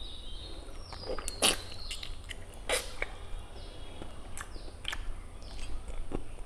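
Close-up mouth sounds of a person eating pork and rice by hand: wet chewing with sharp lip smacks and clicks every second or so, while birds chirp faintly in the background.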